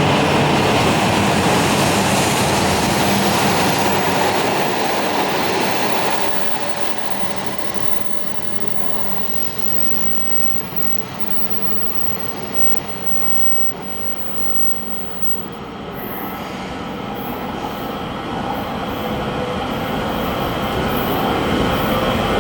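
Shinkansen train running on the tracks, a loud rolling rumble that eases off about six seconds in and builds again near the end.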